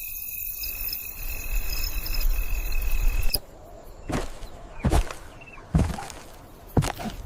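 Steady insect-like chirring over a low rumble, cutting off abruptly about three seconds in, followed by four dull thuds about a second apart.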